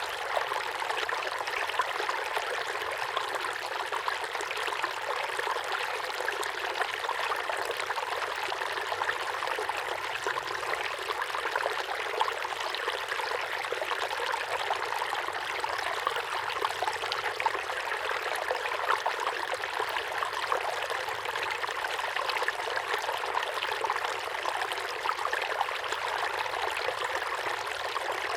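A small waterfall pouring and splashing steadily into a pond: a constant trickling, splashing rush of water with no deep rumble.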